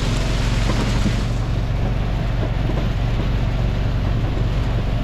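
Small utility vehicle's engine running steadily, with a rushing noise in the first second or so that fades out.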